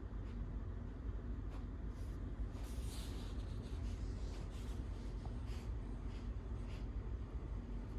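Soft scratchy rustles on bedding as a cat plays with a toy, with a denser flurry about three seconds in, over a steady low hum.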